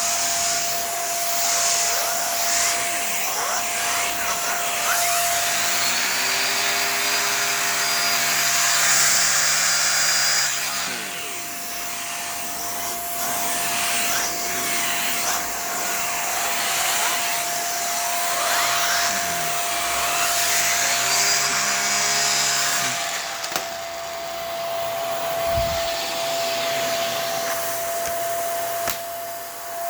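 Hoover WindTunnel PowerDrive Pet bagless upright vacuum running with a steady high motor whine over a rushing airflow noise, the level rising and falling over the stretch.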